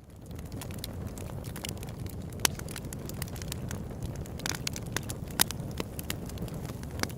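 Open-air campfire burning: a steady low rumble of flame with frequent sharp crackles and pops from the wood, two louder pops about two and a half and five and a half seconds in. It fades in at the very start.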